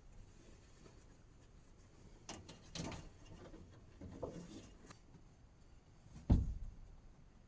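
Scattered light knocks and rustles of objects being handled, with one louder, deeper thump a little after six seconds in.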